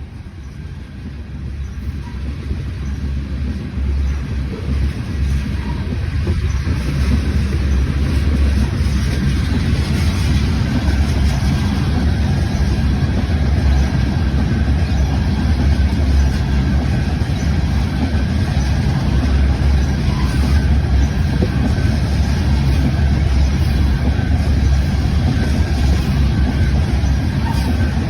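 A train approaching and rolling past: a deep rumble that builds over the first several seconds, then holds loud and steady.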